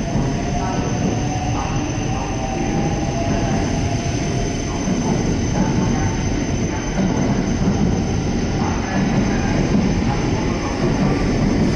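A JR West 683 series limited express electric train pulling out of the station and gathering speed past the platform, with a steady rumble of wheels running on the rails.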